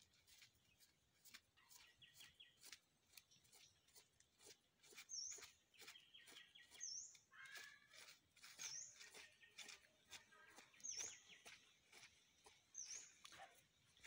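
A small bird chirping, one short call repeated about every two seconds, over faint crackling and rustling as fur is pulled and rubbed off a dead squirrel's skin by hand.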